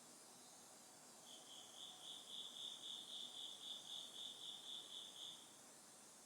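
An autumn cricket chirping: a high pulsed trill of about four pulses a second that starts about a second in and stops shortly before the end, over a faint steady high hiss.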